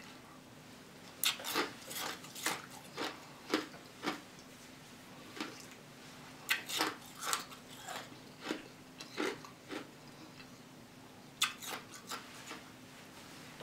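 Ice being crunched between the teeth: sharp, irregular crunches in three runs separated by short pauses.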